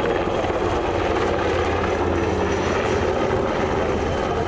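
Helicopter flying by with a steady engine and rotor sound.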